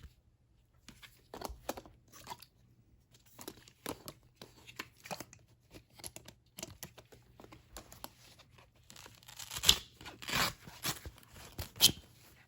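Fabric mop pads being handled and pulled at: scattered rustles and short ripping rasps, loudest in a cluster about ten seconds in.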